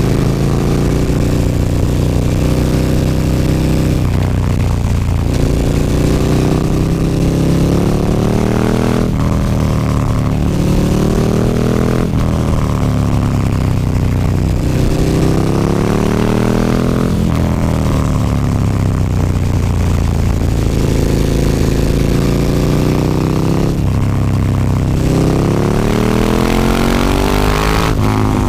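KTM 1290 Super Duke R's V-twin engine through an Akrapovic slip-on exhaust, under way: the revs climb and drop back again several times, with sudden falls in pitch roughly every three to seven seconds.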